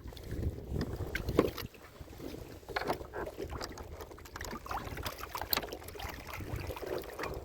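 Boat tent being put up aboard a small open boat: scattered light knocks, clicks and rustles of poles, fittings and fabric, over a low rumble of wind on the microphone.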